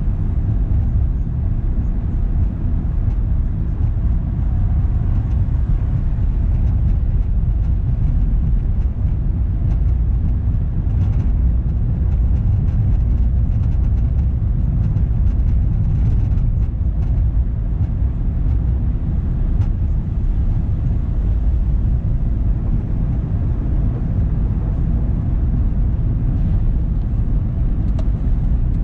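A car driving steadily, its low road rumble of tyres and engine unbroken, with a few faint light ticks.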